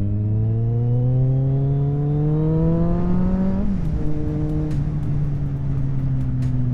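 Kawasaki Z750 motorcycle engine accelerating, its pitch climbing steadily for about three and a half seconds, then dropping sharply at an upshift and holding nearly steady, with wind rush, as heard from a helmet-mounted microphone.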